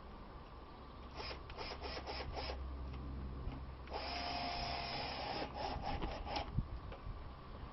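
A screw being driven through a coconut shell into a wooden feeding table: a run of clicks and knocks, then about a second of a drill-driver running, then more clicks.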